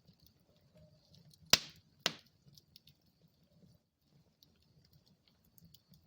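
Wood fire burning in a fireplace: faint small crackles over a soft low rumble, with two sharp loud pops about half a second apart, a second and a half in.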